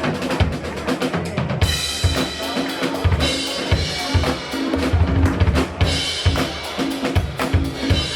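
Live band playing a steady groove led by the drum kit: regular kick-drum beats, snare and cymbals, with bass and sustained chords underneath.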